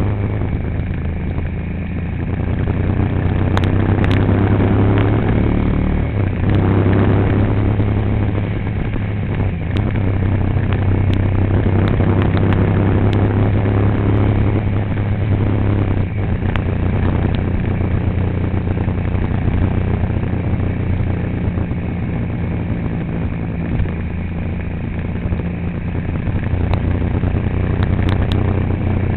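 A motor vehicle's engine running steadily while driving: a constant low hum whose pitch shifts a little, with road and rattle noise.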